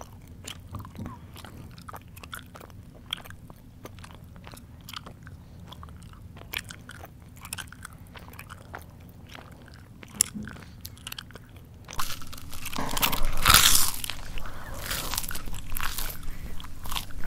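Close-up mouth sounds of a person chewing: soft, scattered clicks and smacks, then, about twelve seconds in, a much louder stretch of crunching.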